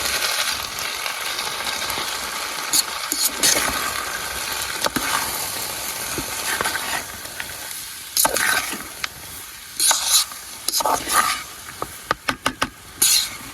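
Poha frying in a pan with onion, peanuts and tomato, with a steady sizzle as it is stirred. The sizzle slowly fades, and in the second half a spoon scrapes and clinks against the pan several times.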